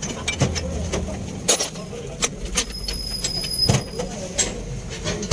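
Irregular metallic clanks and knocks from heavy steel parts being handled, over a steady low hum, with a thin high-pitched whine for about a second and a half near the middle.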